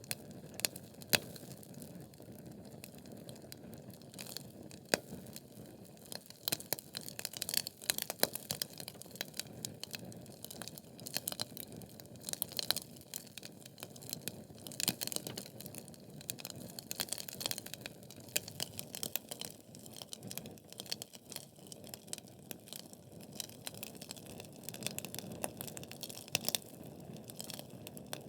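Wood fire burning in a fireplace: logs crackling and popping in irregular sharp snaps over a steady low hiss of the flames, with a few louder pops.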